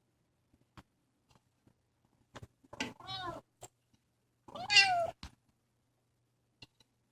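Young kitten meowing twice, about a second and a half apart; the second meow is louder and falls in pitch. Faint light clicks and taps come between the calls.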